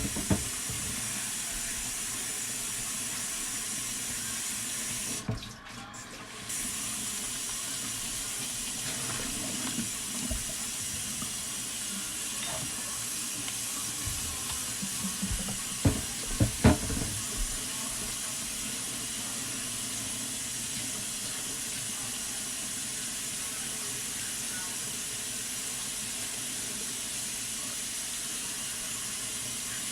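Kitchen tap running steadily into a sink while eggs are washed under it. The flow drops briefly about five seconds in, and a few sharp knocks and clatters come around the middle.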